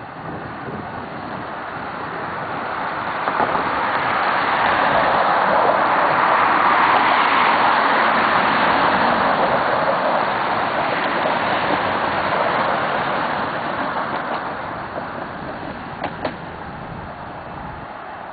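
A vehicle passing by: a rushing noise that swells for about seven seconds and then fades away, with a click about three seconds in and a sharp double click near the end.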